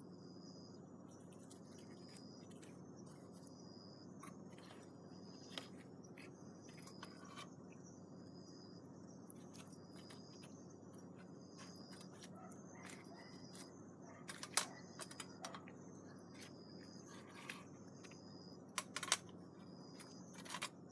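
Crickets chirping at an even pace, with faint scattered crackles and pops from a wood campfire; a few sharper pops come in the second half.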